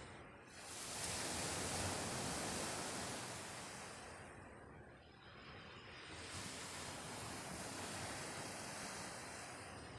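Sea waves washing onto a pebble shore: a swell builds about a second in, ebbs away around the middle, then builds again.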